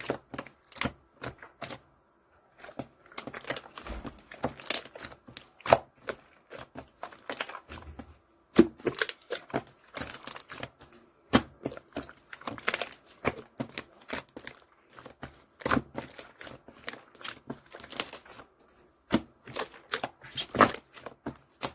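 Clear slime being squished and pressed by hand, making irregular sticky clicks and crackly pops.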